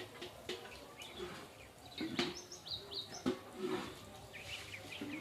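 Small birds chirping, with quick high notes clustered in the middle, and a couple of sharp clicks about two and three seconds in.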